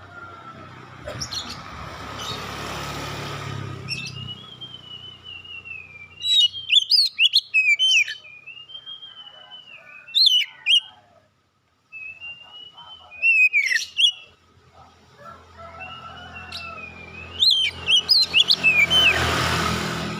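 Oriental magpie-robin (kacer) singing a loud, varied song of whistled notes that glide up and down, broken by sharp, fast chattering notes, in phrases with short gaps. A rushing noise rises near the start and again near the end.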